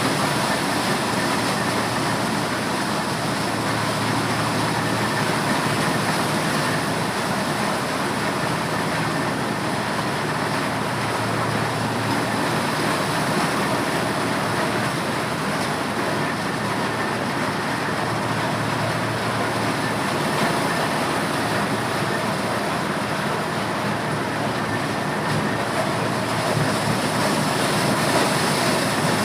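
Corn sheller machine running with a steady, dense clatter.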